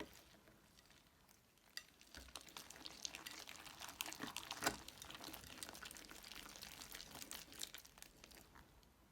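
Slime being squeezed and worked by hand, giving dense, irregular crackling and crinkling clicks. They start about two seconds in, with one sharper crack about halfway, and fade near the end.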